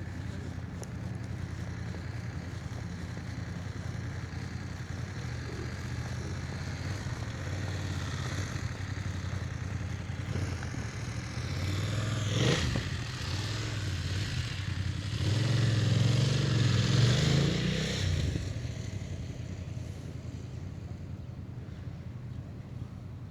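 Motor vehicles passing over a steady low traffic rumble. One passes sharply about halfway through, and a louder one swells and fades a few seconds later.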